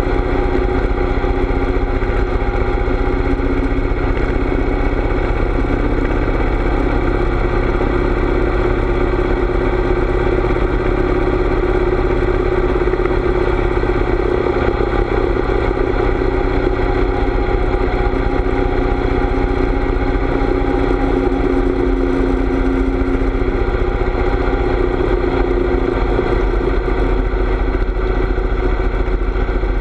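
Harley-Davidson V-twin motorcycle engine running steadily at cruising speed, with a constant low wind rumble on the microphone.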